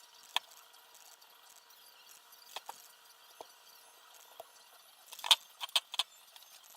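Small sharp clicks and clinks of parts and tools handled during quadcopter assembly: a single click, a few scattered ones, then a quick cluster of louder clicks near the end.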